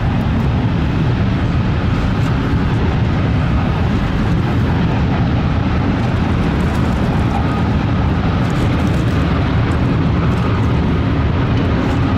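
Train rumbling steadily over a nearby railway bridge, a loud, even low rumble with a faint thin squeal now and then.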